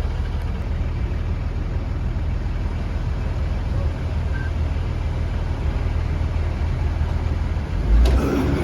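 Engine and cabin noise of a 2015 Blue Bird Vision school bus: a steady low rumble. Near the end a sudden knock, then the noise gets louder and rougher.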